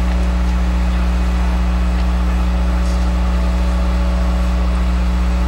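Engine running steadily, a low even drone that holds constant with no change in pitch.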